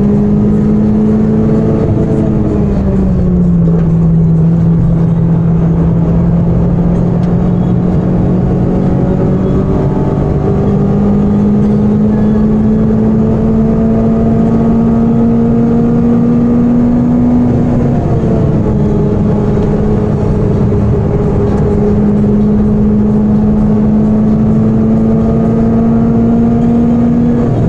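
Citroën Saxo VTS 16V's 1.6-litre 16-valve four-cylinder engine pulling hard under track acceleration, heard inside the cabin with road and wind noise. The engine note climbs steadily and drops sharply at each upshift: once about two seconds in, again past halfway and once more at the very end.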